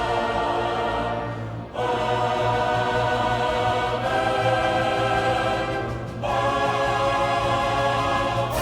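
Choral music: slow, sustained chords from a choir, changing about every two seconds.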